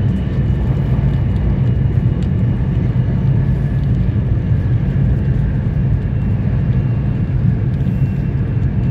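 Running noise inside the passenger car of an E2 series Shinkansen travelling at speed: a loud, steady, low rumble with faint steady whines above it.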